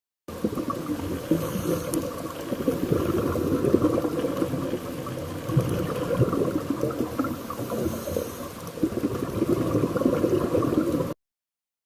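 Continuous water noise, rising and falling in level, that starts suddenly just after the start and cuts off sharply near the end.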